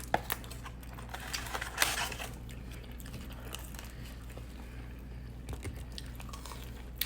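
A person chewing and biting pizza, with small clicks and a brief rustle about two seconds in, over a steady low hum.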